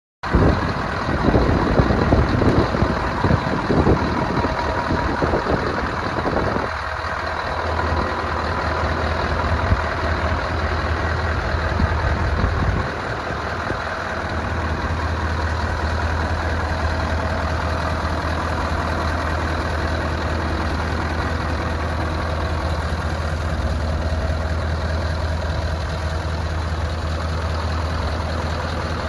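Scania R500 truck's V8 diesel engine running, louder and uneven for the first several seconds, then settling to a steady idle about halfway through.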